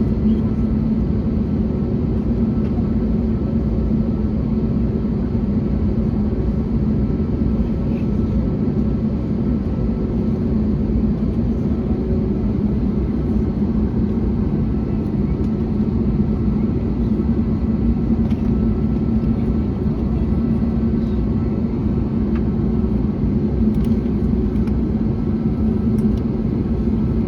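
Steady drone of an Airbus A321neo heard from inside the cabin: the engine and airflow noise of the jet under way, with a low steady hum running through it.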